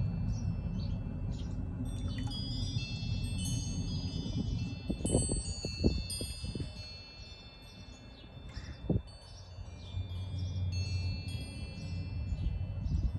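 Wind chimes ringing, many high tones overlapping and sustaining, over a steady low rumble. A few dull knocks come about five to six seconds in and once more near nine seconds.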